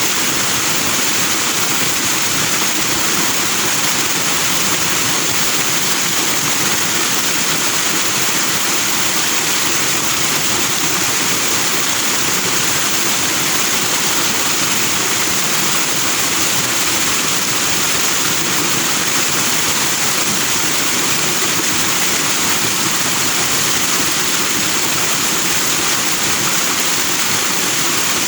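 Fast-flowing stream with white foaming water: a steady, even rush of water that does not change.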